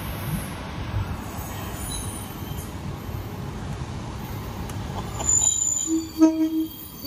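Train running with a steady low rumble; near the end, a few short steady tones sound over it.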